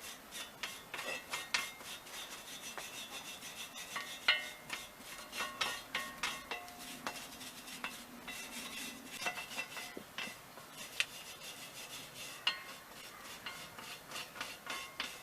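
Hand wire brush scrubbing back and forth over an old corroded metal piece, in quick repeated rasping strokes with a light metallic ring, brushing off rust and dirt.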